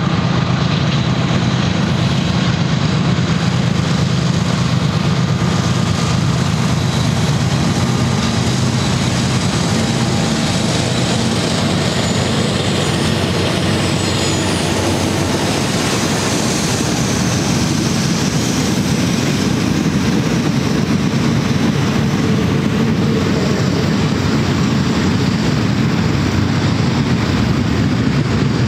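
Double-stack intermodal well cars rolling past: a steady rumble and rush of steel wheels on rail.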